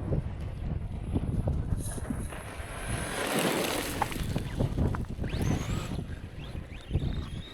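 Wind buffeting the microphone over the rumble of a 3S-powered RC truck running on rough ground, with a hissing rush about three seconds in. About five seconds in, the truck's electric motor whines up in pitch as it accelerates.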